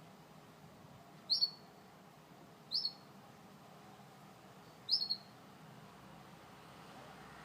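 Gloster canary giving three short, sharp chirps, each dropping quickly in pitch, spaced a second or two apart, over a faint steady room hum.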